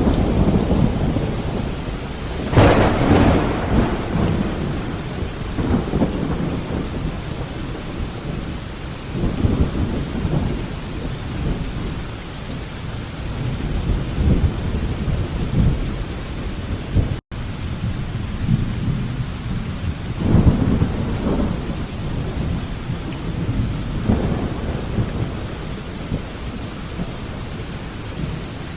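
Thunderstorm: steady heavy rain with rolling rumbles of thunder, and a sharper thunderclap about two and a half seconds in. Further rumbles come and go every few seconds, and the sound drops out for an instant a little past the middle.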